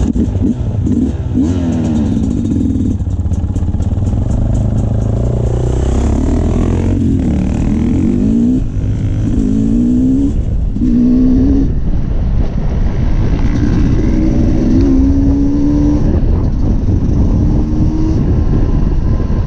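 Dirt bike engine running hard over a trail, its pitch rising and falling again and again as the throttle is opened and eased off, over a steady low rumble.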